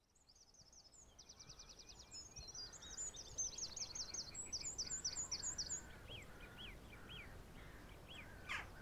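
Songbirds singing, fading in over the first few seconds: fast high trills and rows of quick repeated chirps, then lower separate chirps and one sharp down-sweeping call near the end.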